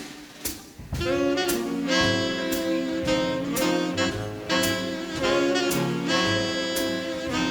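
Big band starting a swing tune about a second in: the horns play held chords over a bass line, with cymbal strokes about twice a second keeping time.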